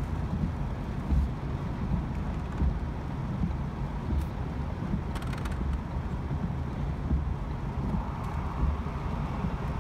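Cabin noise of a Ford Focus driving through heavy rain: a steady low rumble of tyres on the wet road and rain on the car, with a few faint ticks about four to five seconds in.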